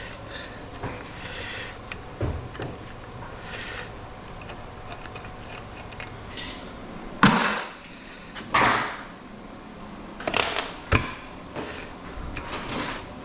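Scrap metal pieces being handled and dropped: a series of sharp clanks and clatters, the loudest about seven seconds in, with more scattered through the rest.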